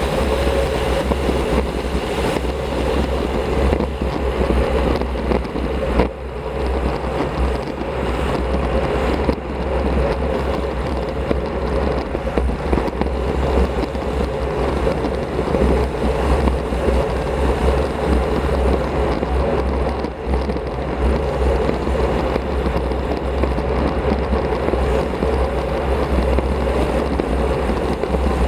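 Riding a road bicycle at speed, heard as steady wind noise on a Shimano CM-1100 action camera's microphone, with a low rumble of tyres on the road.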